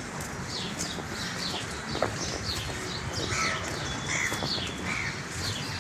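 Small birds chirping: a quick string of short, falling high chirps, with a few lower, rounder calls about three to four seconds in, over a steady low rumble.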